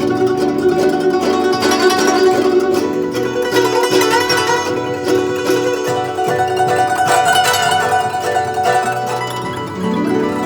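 Guzheng (Chinese zither) playing a fast, dense passage of plucked notes with the strings ringing on.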